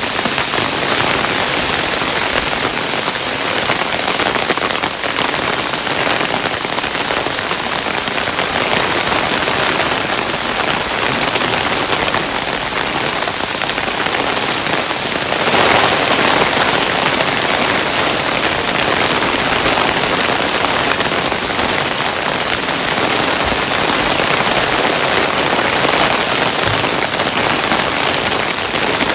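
Hailstones falling steadily, a dense hiss of many small pelting impacts, briefly heavier about half way through.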